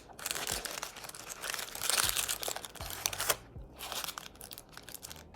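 Paper fast-food packaging crinkling and rustling as it is handled and opened, with a short pause a little past three seconds in.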